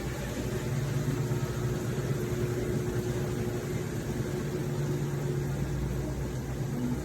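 Kapas KPS35-735H2 compact washing machine running its spin cycle: a steady motor hum with a low vibrating drone.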